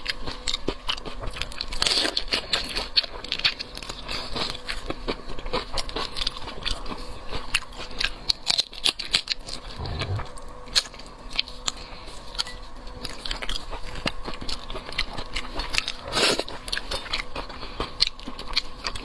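Close-miked mukbang eating: steady biting, crunching and chewing with many small wet clicks and crackles, a few louder crunches among them.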